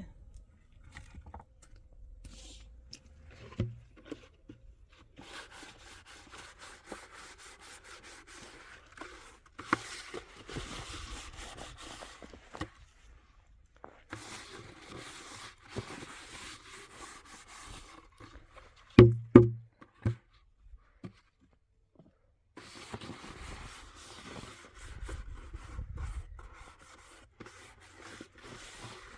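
Stretches of scraping and rubbing, broken by a thump and, about two-thirds of the way through, two or three loud knocks.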